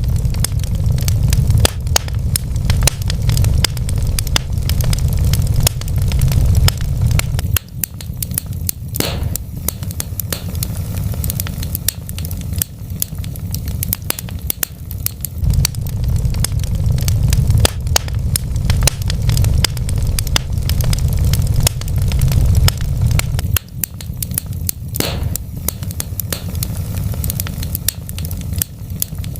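Wood fire burning in a fireplace: dense, irregular crackles and sharp pops of burning logs over a steady low rumble.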